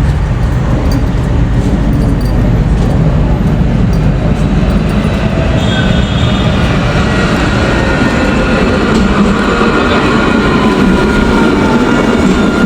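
Nottingham tram running close by at a stop: a steady low rumble, joined about halfway through by high whining tones and a faint gliding squeal from its wheels and motors.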